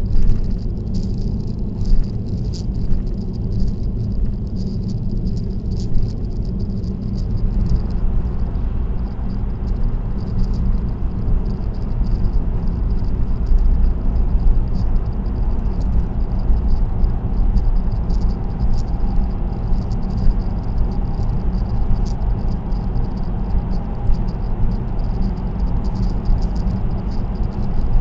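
Car driving at expressway speed: steady low rumble of road and tyre noise, with a light, constant crackly rattle over it and a few short knocks in the first few seconds.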